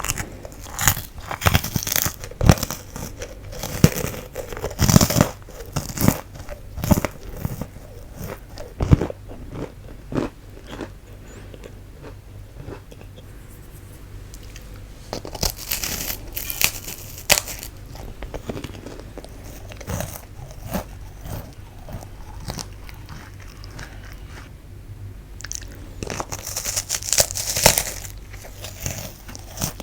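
Close-miked biting and chewing of fu-gashi, a light, airy puffed wheat-gluten snack: sharp crisp crunches in bursts, with a quieter stretch of chewing in the middle.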